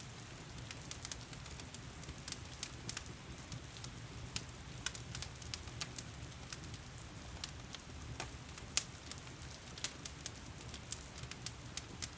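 Wood fire in a stone fireplace crackling, with frequent irregular sharp pops over the steady hiss of heavy rain.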